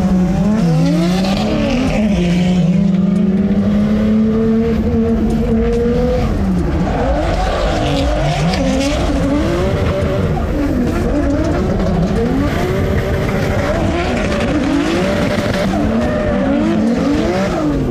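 Turbocharged drift car engine held at high revs for several seconds, then revving up and down repeatedly under throttle changes, with tyres squealing.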